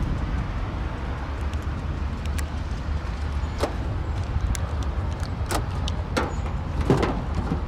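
A car door being handled and opened: several sharp clicks and knocks from the latch and handle, over a steady low rumble.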